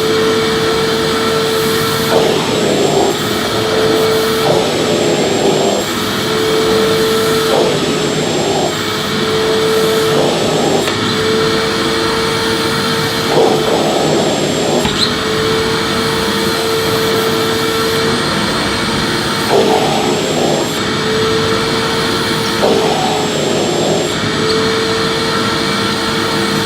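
Electric vacuum cleaner running steadily with a motor whine and a rush of air, its note dipping and shifting every two to three seconds as the nozzle is pushed back and forth over the floor.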